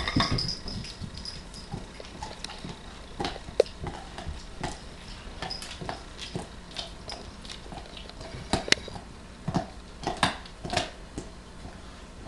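Pit bull licking a cat: irregular short wet licks and tongue smacks, with a louder run of them about two thirds of the way through.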